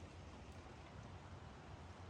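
Faint, steady hiss of light rain, with a low rumble underneath.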